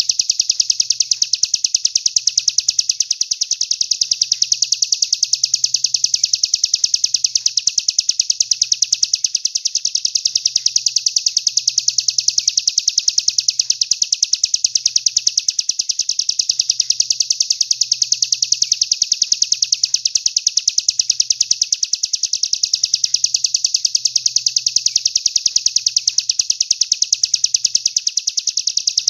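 A songbird's fast, high-pitched chirping trill, repeated evenly and without a break. It is a masteran recording of a 'tembakan' burst call, played for caged songbirds to learn.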